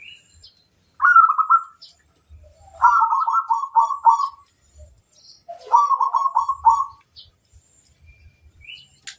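Zebra dove (perkutut) cooing: three rippling coo phrases, the second and longest lasting about a second and a half. Faint high chirps of small birds can be heard between them.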